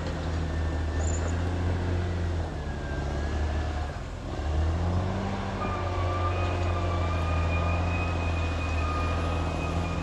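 Caterpillar D6R XL bulldozer's diesel engine running steadily under work, easing off briefly about four seconds in and then picking up again with a short rise in pitch. A steady high whine joins it a couple of seconds later.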